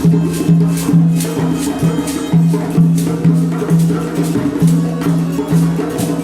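Children's classroom percussion ensemble playing a steady rhythm: shaken and struck percussion rattling over a repeating low pitched note, about two beats a second.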